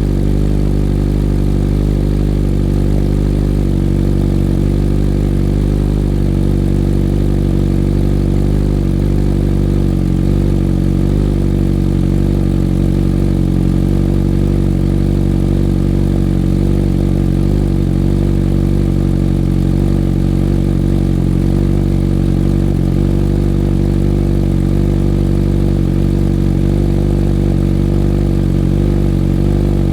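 Suzuki GSX-S1000's inline-four engine idling steadily through a full Dominator exhaust with no catalytic converters, already warm after starting.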